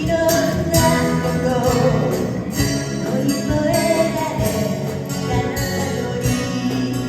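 Live band music with singing and a steady beat of strummed guitar and tambourine-like percussion.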